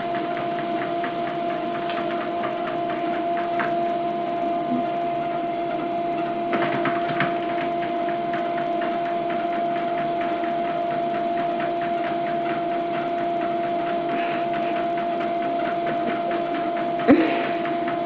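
A small motor or appliance running with a steady hum at two fixed pitches and a fast, even rattle, with a brief louder knock near the end.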